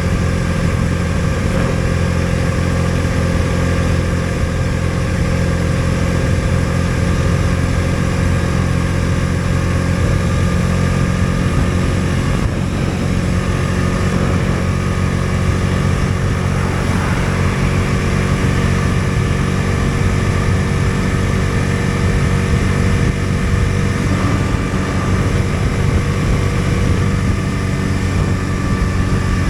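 Bajaj Dominar 250's single-cylinder engine running at a steady, even pitch, with road and wind noise.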